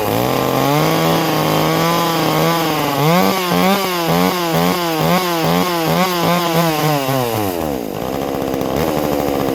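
Small two-stroke chainsaw, freshly fitted with a carburettor kit, held at high revs, then blipped up and down about twice a second, before dropping back to idle near the end.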